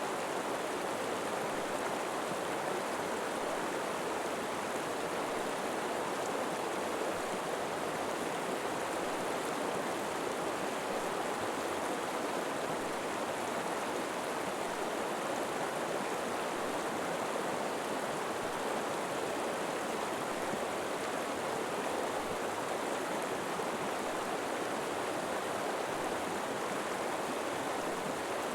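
River water flowing steadily, a constant even rush with no breaks or changes.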